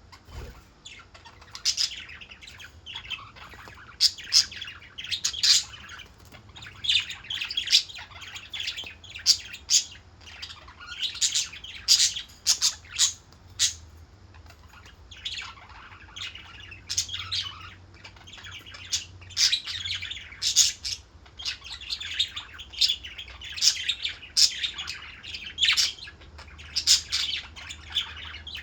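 Parakeets chirping and squawking, a busy chatter of short, sharp calls following one another with barely a pause.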